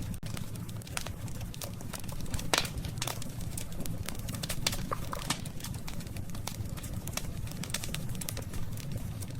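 Wood campfire crackling, with frequent sharp pops and snaps, the loudest about two and a half seconds in, over a steady low rumble of the burning fire.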